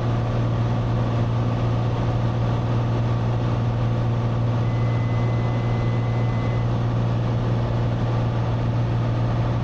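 Steady drone of a Cessna 182's engine and propeller heard in the cockpit. About halfway through, a thin, steady high tone sounds for about two seconds.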